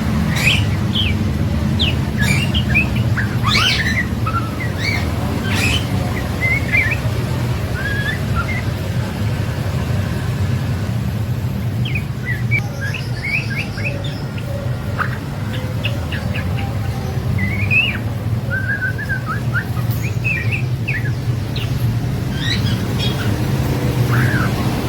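Juvenile white-rumped shama singing, a run of short chirps and quick twittering phrases with brief pauses, over a steady low rumble.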